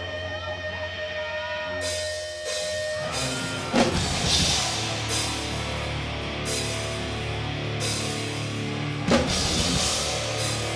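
Hardcore punk band playing live through a PA: held guitar notes ring for the first couple of seconds, then cymbals come in and the drums and full band crash in about four seconds in, with another big hit near the end.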